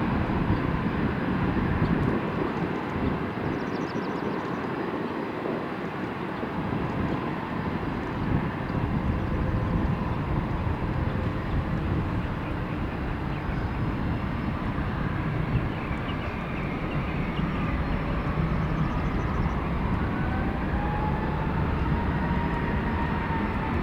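Boeing 777-200 airliner departing at takeoff power: steady jet engine noise, a bit quieter than a moment before and then holding even as the plane climbs away.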